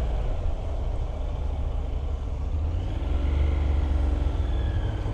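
Motorcycle engine running steadily at low speed with a deep rumble as the bike rides off, with a faint higher whine coming in about three seconds in.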